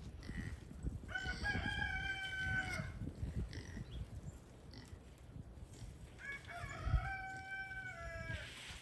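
A rooster crowing twice, each crow a long pitched call of about two seconds, the second starting about six seconds in.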